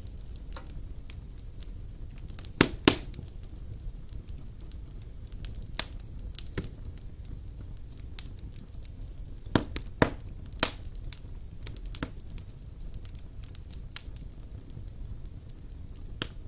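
Wood fire burning in a fireplace: a low steady rumble with irregular crackles and sharp pops of burning logs, the loudest in quick pairs about three seconds in and again around ten seconds.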